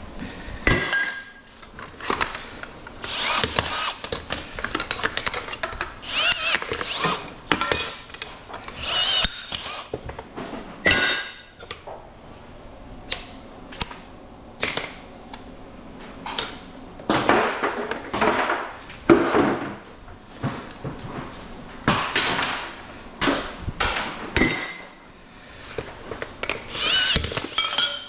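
A handheld power cutting tool running in repeated short bursts as it chops through thin-walled aluminum tubing.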